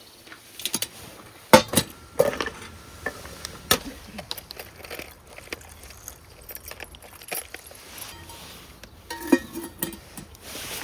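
Dishes and utensils being handled: a series of sharp clinks and knocks, some ringing briefly.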